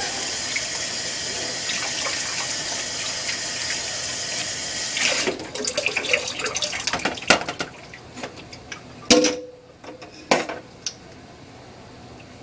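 Water running steadily, then stopping about five seconds in, followed by a string of knocks and clatters; the loudest, a little after nine seconds, rings briefly.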